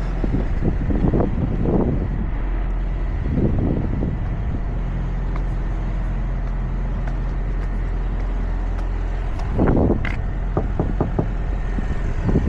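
Steady low hum of an idling truck engine, with a few louder irregular noises and, about ten and a half seconds in, a quick series of sharp taps.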